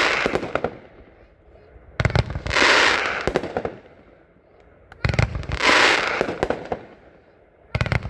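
Firework cake (Triple Feature, 25 shots) firing a shot about every three seconds, three times. Each shot is a sharp report with several pops, then a hissing, crackling break that fades over about a second and a half.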